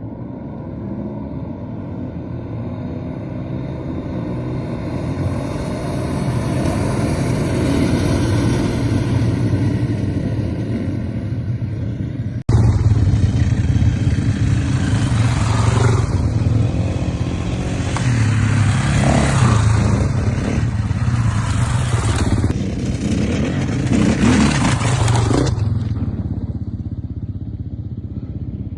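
Motocross motorcycle engines running and revving. The sound builds steadily, then cuts abruptly about twelve seconds in to a louder stretch with repeated surges of throttle, which eases off near the end.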